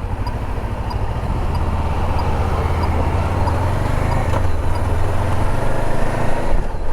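Honda CB500X motorcycle's parallel-twin engine running, a steady low hum that grows a little stronger a couple of seconds in, over road and wind noise.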